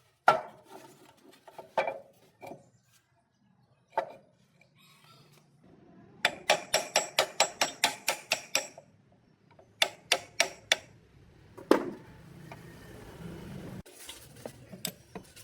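Hammer blows on metal: a few single knocks, then a quick run of about a dozen ringing strikes at about five a second, followed by a few more blows.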